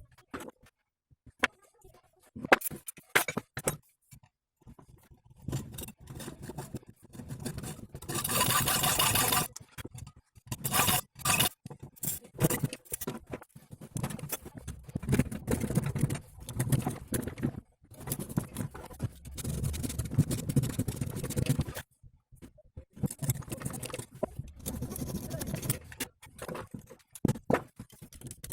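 Hand tools working on the front driveshaft of a car, with irregular scraping and clinking of metal. About eight seconds in, a loud steady hiss lasts for about a second and a half.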